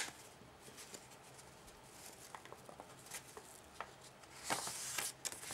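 Faint rustling and small crackles of a sheet of origami paper being handled, folded and creased by hand, with a longer rustle about four and a half seconds in.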